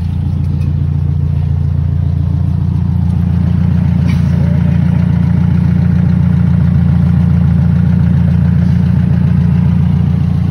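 Engine of a lowered Toyota KE70 sedan idling steadily at close range, a low, even rumble.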